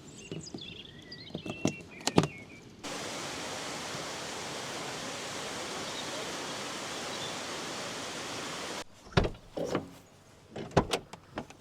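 Birds chirping with a few sharp knocks. After about three seconds a steady rush of water starts abruptly and cuts off just as abruptly about six seconds later. Several knocks and clatters of handling follow.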